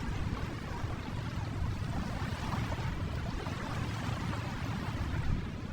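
Ocean waves washing in a steady, continuous surf, used as a background bed.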